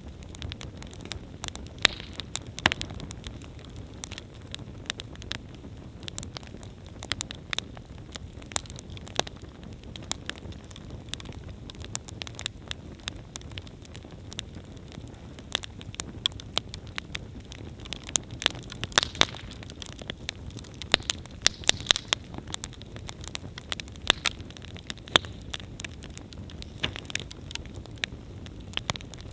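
Wood campfire burning, crackling and popping irregularly over a low steady rush of flame, with a denser run of loud pops about two-thirds of the way through.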